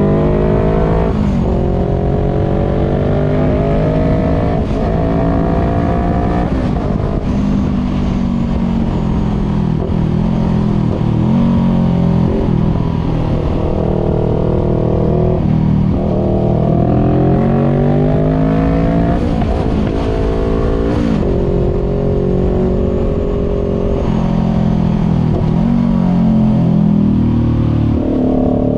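Voge 500R's parallel-twin engine through a full exhaust with the dB killer removed, accelerating through the gears: the pitch climbs, drops back at each gear change, then holds steady between pulls.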